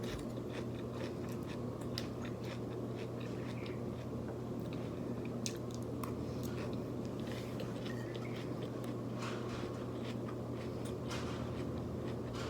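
Close-miked chewing and eating: soft mouth noises and scattered small clicks, over the steady hum of an electric fan.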